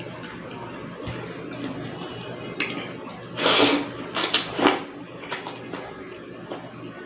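Close-up eating sounds from a meal of pork sinigang soup and rice: a few short noisy bursts around the middle, with light clicks of utensils.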